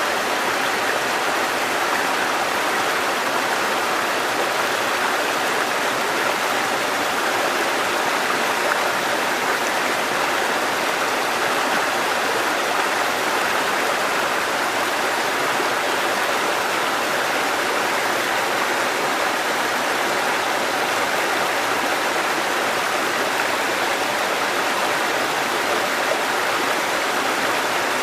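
Mountain stream water cascading over rocks, a steady rushing with no breaks.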